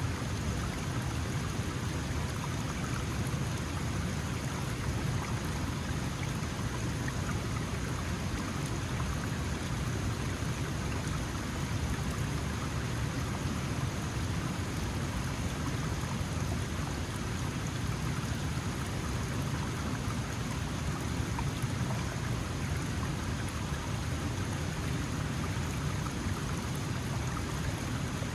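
Small mountain stream running steadily over stones, with a full, even rush of water.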